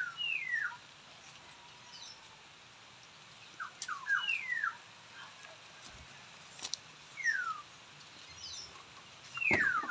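A bird calling with short, clear whistles that slide down in pitch, given in small groups every few seconds.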